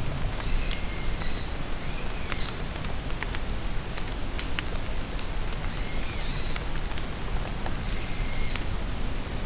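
Steady rain in a forest, with drops tapping close by. A bird calls four times over it, each call a short series of high notes lasting under a second.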